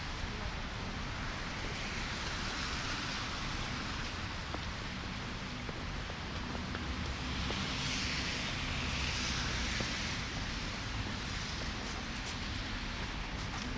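City street ambience in a snowstorm: a steady hiss of wind, falling wet snow and car tyres on a slushy road over a low traffic rumble, swelling twice.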